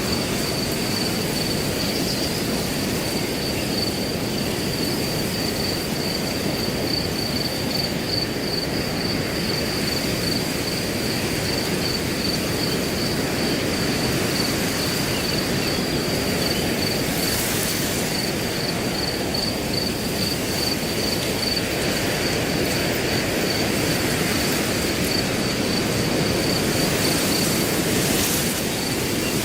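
Steady wind rushing through grass, with a cricket trilling continuously at one high pitch throughout.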